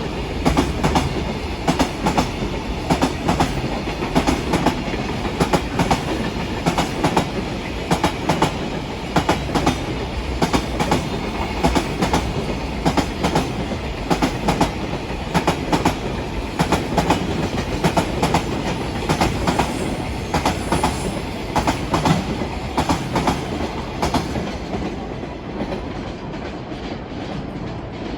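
A train passing on the main line, its wheels clacking in repeated groups over the rail joints, with a steady rolling rumble underneath. It eases off slightly near the end.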